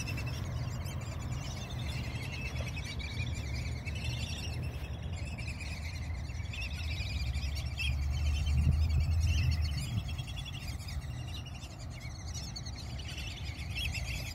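A group of small birds calling with many quick, high chirps and squeaks, over a low rumble that swells about eight seconds in.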